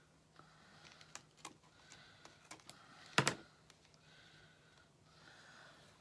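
Light, irregular clicks and taps of small craft pieces being handled and set down on a work table, with one sharper click about three seconds in. A faint steady hum runs underneath.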